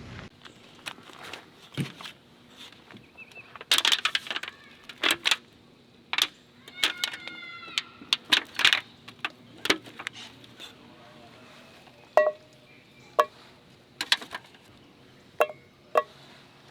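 Irregular sharp knocks and clicks, about fifteen over the stretch, with a short warbling pitched call about seven seconds in and a few faint chirps later.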